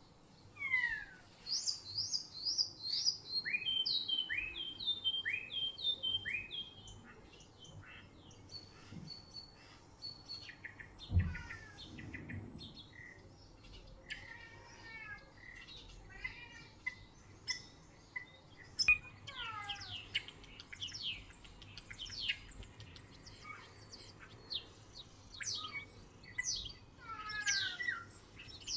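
Small songbirds singing: a loud run of quick descending whistled notes in the first few seconds, then scattered chirps and sweeping calls. There is a single low thump partway through.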